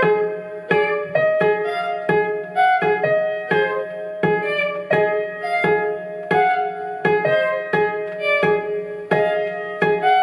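Instrumental music from a small live ensemble, with no voice: a steady, evenly paced pattern of struck notes about every 0.7 seconds over held pitched tones.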